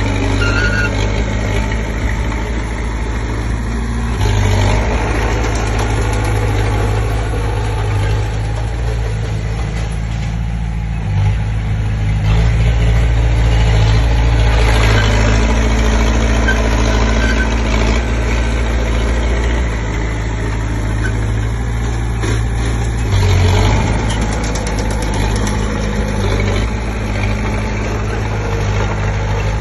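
Komatsu D20P bulldozer's diesel engine running steadily, pulling harder for a stretch in the middle and briefly twice more as the machine pushes soil.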